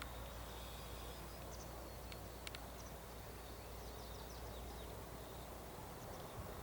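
Songbirds giving short, high chirps and a quick run of falling notes over a steady low background rumble.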